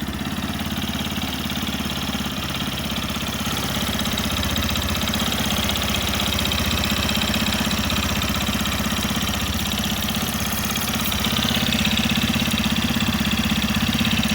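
Yamaha FZ15 motorcycle's single-cylinder engine idling steadily just after starting, with an even rhythmic tapping from the engine, the 'toque-toque' that the owner suspects could be the valves. The idle gets a little louder near the end.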